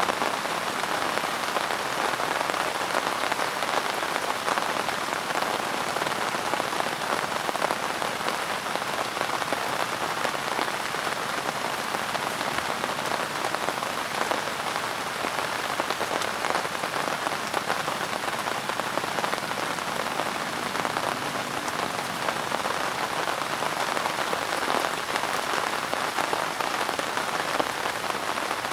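Steady, gentle rain falling on a surface: an even hiss made of many small drop hits, unchanging throughout.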